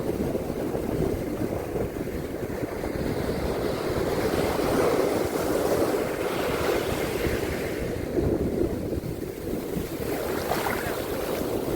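Sea waves washing onto a beach, the surf swelling and easing, with wind buffeting the microphone.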